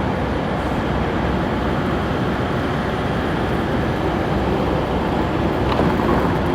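Train running in the station, a steady loud rumble with noise.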